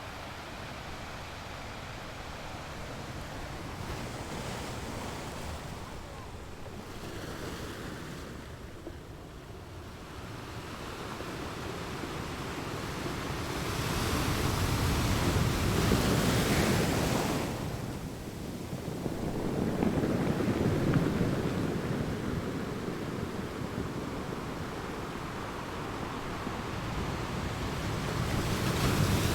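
Ocean surf: waves breaking and washing ashore in long swells that rise and fall, loudest a little past halfway and building again at the end.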